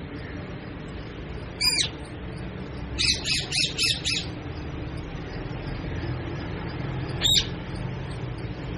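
Parrot squawking: one sharp call, then a quick run of about five squawks, then a single call near the end, over a steady low background hum.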